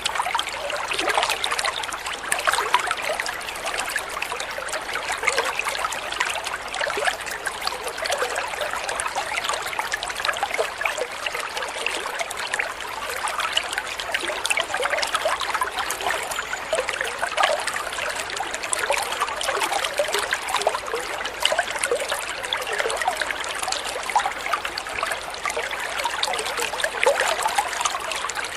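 Water trickling and babbling steadily, with a constant rush full of small irregular splashes and gurgles, like a small stream.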